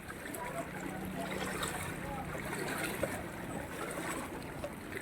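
Floodwater from heavy rain flowing in a steady rush, with a faint low hum under it for the first few seconds.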